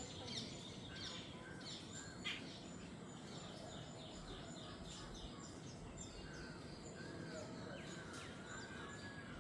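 Jungle birds chirping and calling over a steady background hiss. Rapid series of short, high chirps continue throughout, with a run of repeated arching calls in the second half.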